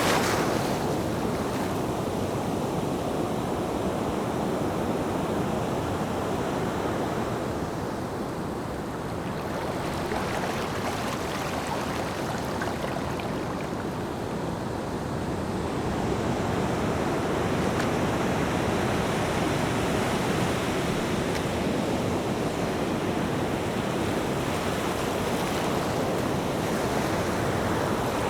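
Ocean surf: a steady wash of waves on the shore that eases a little in the middle and swells up again after about the halfway point.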